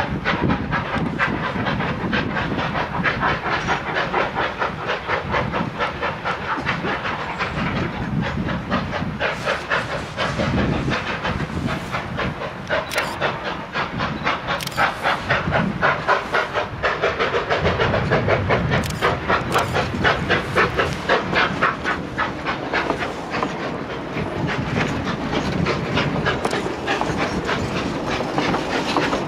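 A machine running steadily, with a fast, even rhythmic pulsing over a hiss.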